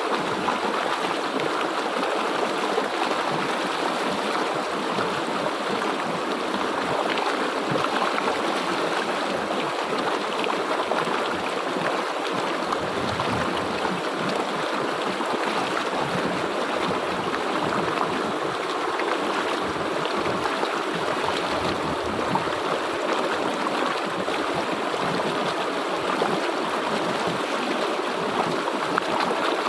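A river or stream flowing steadily over rocks, a continuous, even rush of water.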